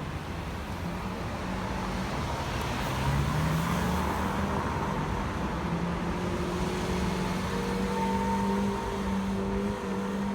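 Lamborghini Aventador S's V12 engine running; about three seconds in it rises in pitch and gets louder, then holds a steady note.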